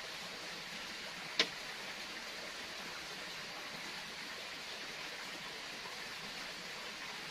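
Steady, even hiss of outdoor background noise, with one sharp click about a second and a half in.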